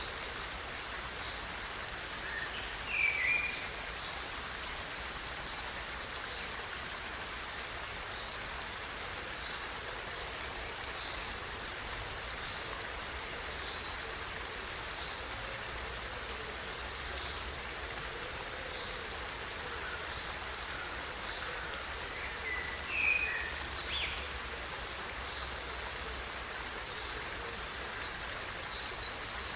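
Steady rush of flowing water, with two brief bird chirps, one about three seconds in and another just after twenty-two seconds.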